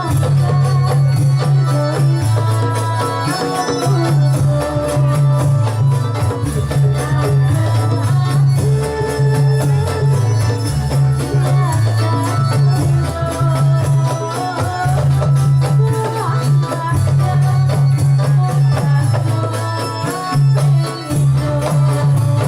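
Live Javanese Dolalak dance music: hand drums and rattling, jingling percussion keep a dense, even beat over a steady deep bass line, with melodic instruments above.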